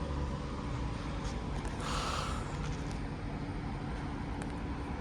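Class 390 Pendolino electric train standing at the platform with a steady hum, and a short hiss of air about two seconds in.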